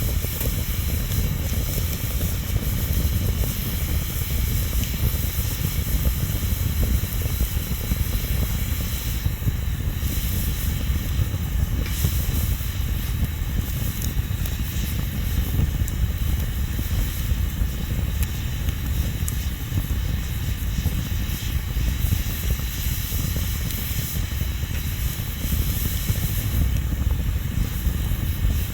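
Bonfire burning steadily: a continuous low rumble and hiss of the flames, with a few sharp crackles and pops from the wood.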